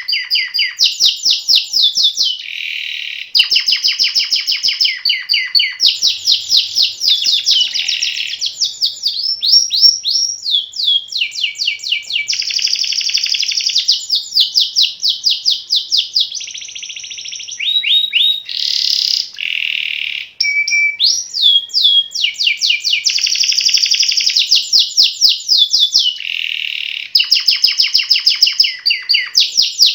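Male canary in full song: a long unbroken run of fast trills and rolls, switching every second or two between rapid repeated notes, quick rising and falling sweeps and short buzzy rattles.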